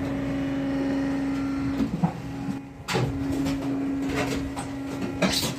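Interlocking brick-making machine running with a steady motor hum, with a few sharp knocks and clanks, the loudest about three seconds in and another near the end.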